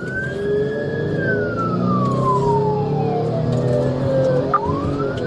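Police car siren wailing: a rising tone that holds, then falls slowly over about three seconds and rises again near the end, with vehicle engine and road noise underneath.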